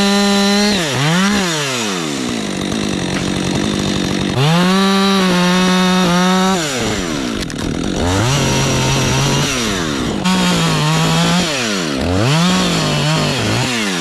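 Two-stroke chainsaw cutting wood in several bursts, revving up to full throttle and dropping back toward idle between cuts. Its pitch sags lower in one cut about halfway through, as the chain loads up in the wood.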